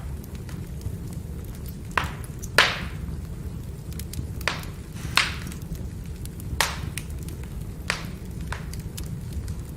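Firewood burning with a steady low rumble, broken by sharp crackles and pops about once a second, the loudest about two and a half seconds in.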